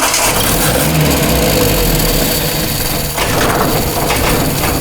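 Freshly rebuilt Datsun pickup truck engine cranking over on its starter motor, steady and loud, without catching. The cranking comes right after a no-spark diagnosis, with the ignition timing still off.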